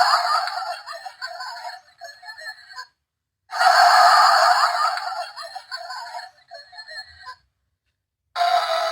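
Tiny, tinny speaker of a sound-playing capsule toy playing the same short recorded clip twice, each play about four seconds long and cut off abruptly. Near the end a different, steady tune begins.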